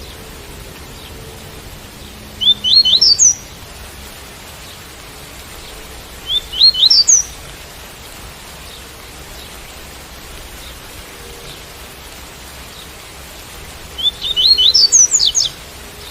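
Double-collared seedeater (coleiro) singing the tui-tui song: three short phrases of quick, rising, high whistled notes, the last one longest, over a steady hiss of rain.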